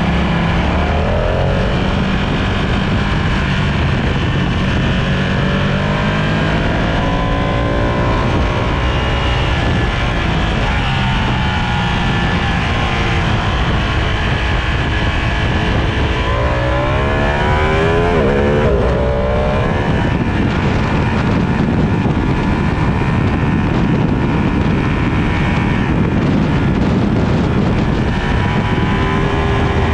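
Sport motorcycle engine at speed, its pitch climbing and dropping several times as the rider accelerates and rolls off, under a loud steady rush of noise.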